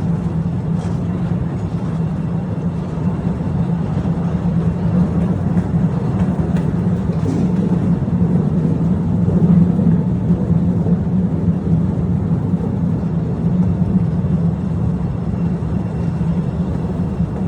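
Postojna Cave trolley train running on its rails, heard from on board: a steady rumble of wheels and running gear with a few faint clicks in the first seconds.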